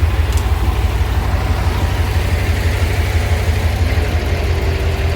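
Heavy truck diesel engine running steadily with a deep, fast, even pulse, with a faint steady tone joining near the end.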